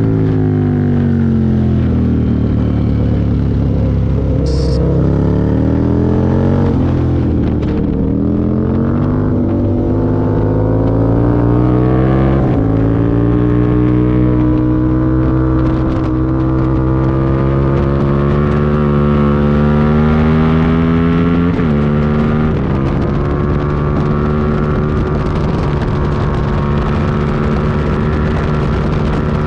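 Aprilia Tuono V-twin sportbike engine under way at track speed: the pitch falls at first as it slows, then climbs under acceleration, with two sharp drops at upshifts about 12 and 21 seconds in before it holds fairly steady, over a rush of wind.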